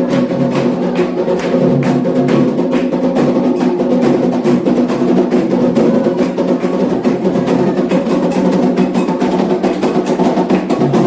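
Candomblé atabaque hand drums playing a fast, steady ritual rhythm with a struck bell or woodblock-like accent, and held chanted tones from voices over it.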